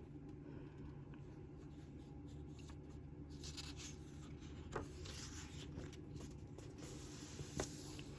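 Faint rustling of paper book pages being handled, in a few short bursts, with two light clicks about five and seven and a half seconds in, over a low steady hum.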